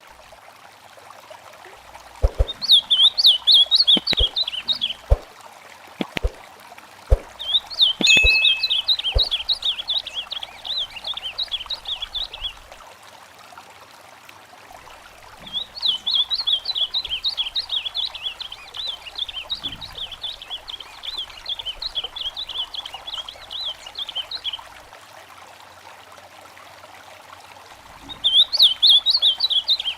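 A songbird singing long phrases of rapid, repeated high notes, four bursts with pauses between, over the steady rush of a trickling stream. Several sharp clicks sound during the first ten seconds.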